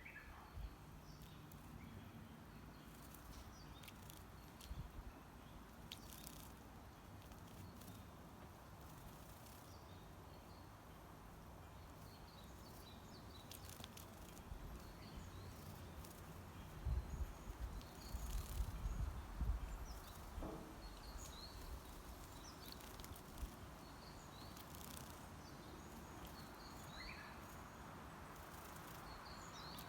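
Faint, scattered short chirps of small wild birds over a steady outdoor background hiss. Partway through comes a brief cluster of low rumbling thuds, the loudest sound here.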